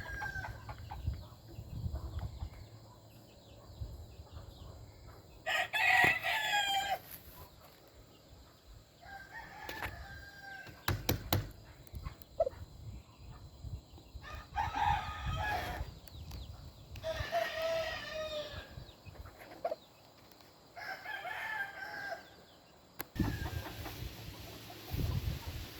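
Game roosters crowing repeatedly, about five crows a few seconds apart, each lasting a second or two, over a low rumble.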